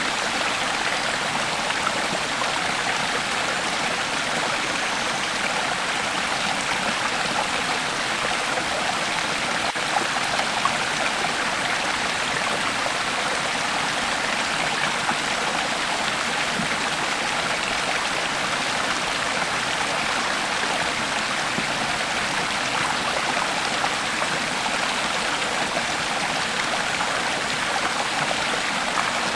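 Creek water flowing steadily over rocks, an even rushing and trickling with no change.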